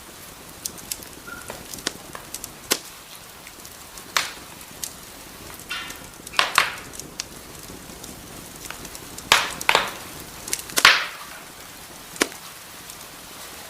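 Wood fire crackling in a fireplace: sharp, irregular pops and snaps over a faint steady hiss, with the loudest cluster of pops about nine to eleven seconds in.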